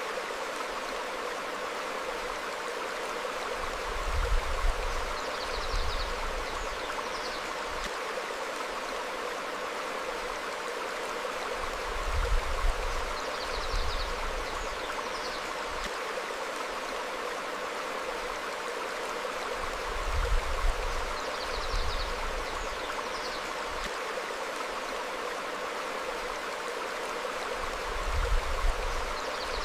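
Stream flowing steadily over rocks, with low rumbles swelling up every few seconds and faint short bird chirps now and then.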